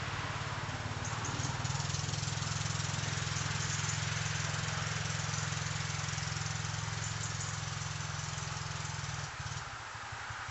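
Dirt bike engine running steadily, then dropping back and getting quieter about nine seconds in.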